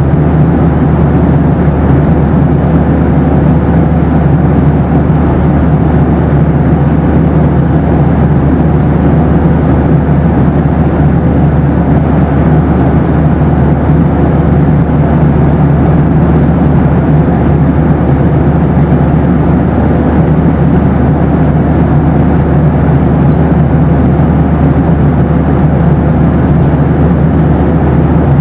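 Boeing 737 cabin noise: a steady, unchanging low-pitched rush of engines and airflow, with a faint steady tone running through it.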